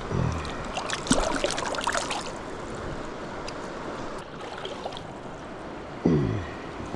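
Steady flowing river water, with a cluster of sharp clicks and knocks about a second in and a short low sound falling in pitch near the start and again near the end.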